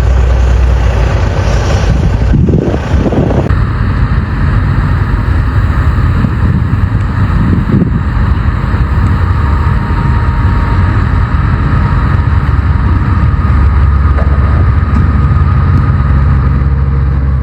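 Vehicle driving noise: a loud, steady low engine and road rumble, with an abrupt change about three and a half seconds in.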